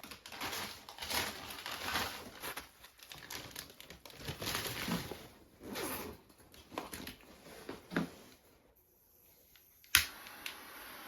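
Irregular crinkling and rustling, something being crumpled or handled, for about eight seconds; after a short quiet gap, one sharp click near the end.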